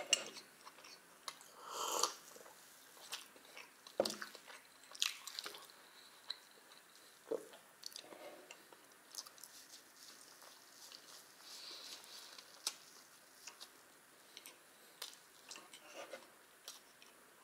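Chewing and mouth sounds of a person eating pancakes with porous milk chocolate: irregular soft smacks and clicks.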